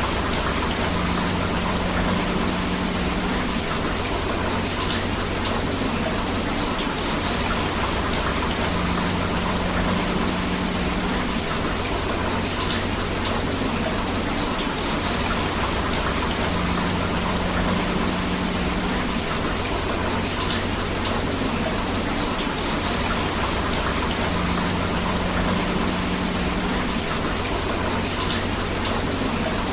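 Steady rain and flowing river water making a continuous, even hiss, with a faint low hum that comes and goes about every eight seconds.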